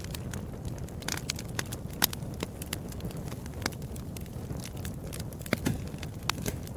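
Wood fire crackling in a fireplace: a steady low rumble of flames with irregular sharp pops and snaps, the loudest about two seconds in and again about five and a half seconds in.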